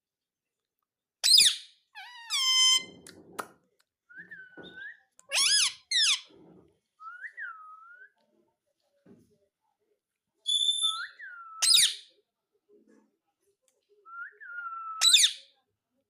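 Pet ring-necked parakeet calling: a string of sharp squawks and short whistles with pauses between them. Some notes sweep steeply up in pitch, others rise and fall.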